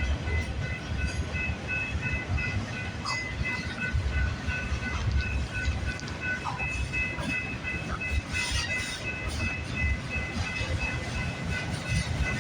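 Freight train cars rolling past, a steady low rumble with wheel clatter that swells and fades as cars go by. A faint ringing tone pulses over it at an even pace.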